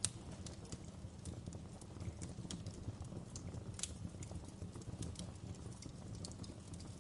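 Wood fire crackling: irregular sharp pops and snaps from the burning logs over a steady low background, with one loud pop right at the start and another nearly four seconds in.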